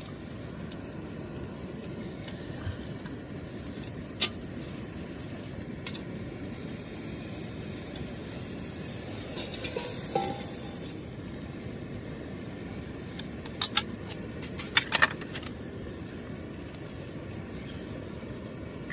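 Steady low rushing noise with a few light clicks and clinks of gear being handled: one about four seconds in, a few near the middle, and a quick cluster about fourteen to fifteen seconds in.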